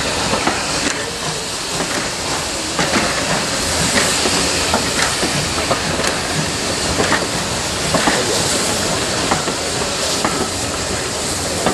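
Train of passenger coaches rolling past on the rails: a steady rushing noise from wheels on track, with irregular clicks and knocks from the wheels.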